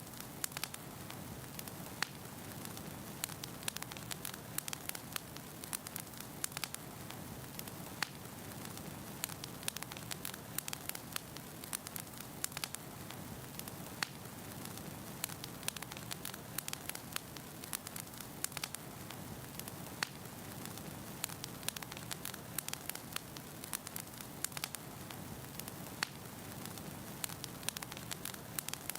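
Wood fire burning in a fireplace: a steady low hiss and rumble of flames with many small irregular crackles and an occasional louder pop of the burning logs.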